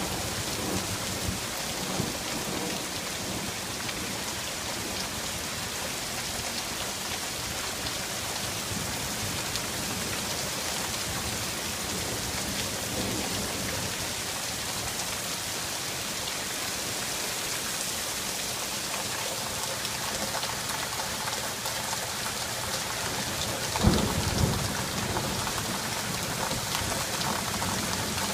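Heavy rain falling steadily in a thunderstorm, with a sharp crack of thunder a few seconds before the end.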